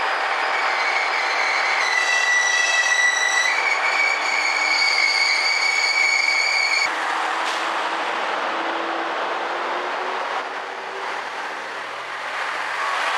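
JR West KiHa 126 diesel railcar pulling into the platform. About two seconds in, a high squeal of several tones starts as it brakes and cuts off suddenly about seven seconds in. After that come the low rumble of its diesel engine and the rolling of the cars.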